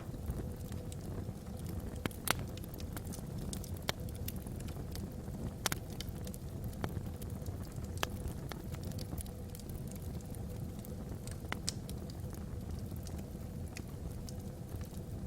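Wood logs burning in a fireplace: irregular sharp crackles and pops, a few louder ones, over a steady low rush of the fire.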